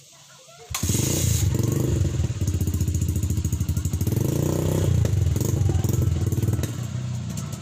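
Trail motorcycle engine running at a fast, even idle through a homemade 'roncador' rumble exhaust, its exhaust pulses coming in close and regular. It starts abruptly about a second in and swells a little near the middle.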